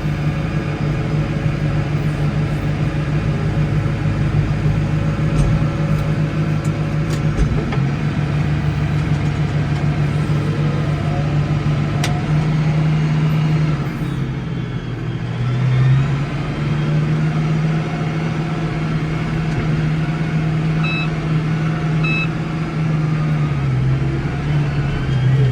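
Case 115U tractor engine running steadily under load while plowing snow, its speed dipping briefly about halfway through and then recovering. Two short high beeps sound near the end.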